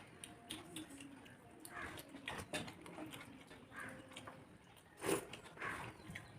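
Close-up chewing and mouth smacking while eating khichuri, with scattered short clicks. One louder knock comes about five seconds in.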